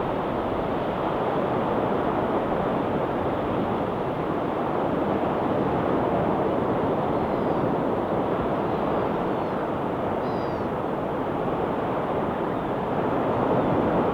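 Ocean waves washing steadily onto a rocky shore: a constant rushing surf noise, getting a little louder near the end.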